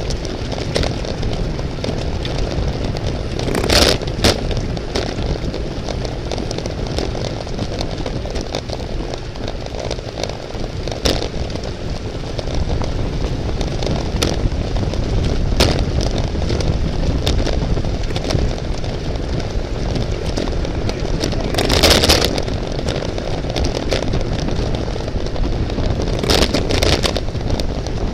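Wind rushing over a bicycle-mounted camera's microphone while riding at race speed, a steady rumbling noise. Occasional clicks and rattles from the bike cut through it, the loudest about 22 seconds in.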